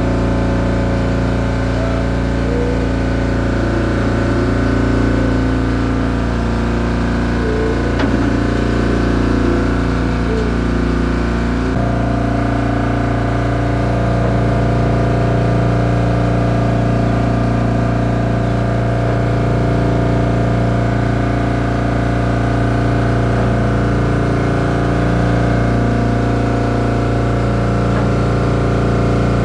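A motor running steadily, a deep droning racket of fixed tones; about twelve seconds in another steady tone joins and the drone grows fuller.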